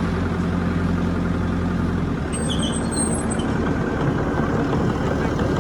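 Heavy diesel earthmoving machinery running steadily under load. Its engine note shifts about two seconds in, and a brief faint high squeal comes around the middle.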